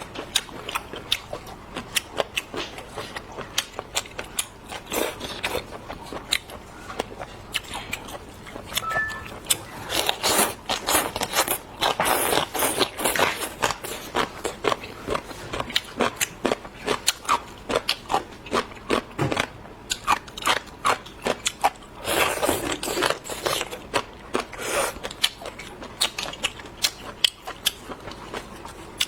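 Close-miked eating of marinated seafood: chewing and biting with a dense run of sharp crunches and clicks, and a few longer, noisier chewing stretches.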